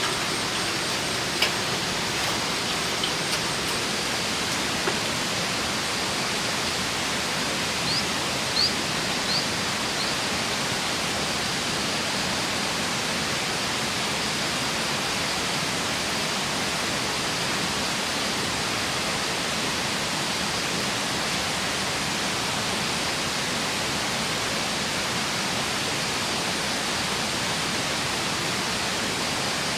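Steady, unbroken rush of water, with three short high chirps about eight to nine seconds in.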